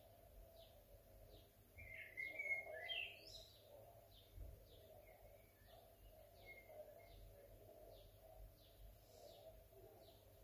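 Faint birdsong: a short high chirp repeated at a steady pace, with louder, more varied song phrases about two seconds in and again later.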